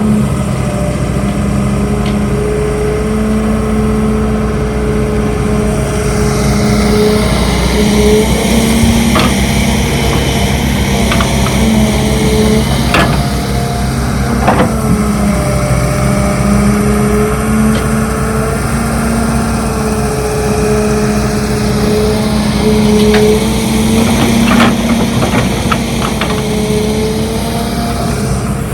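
Heavy diesel engine of construction machinery running steadily, its pitch rising and easing as the load changes, with a few sharp metallic clanks now and then.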